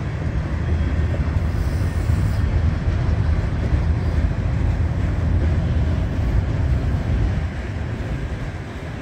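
Freight train of loaded autorack car carriers rolling past, a steady low rumble of wheels on rail. It swells about a second in and eases off near the end.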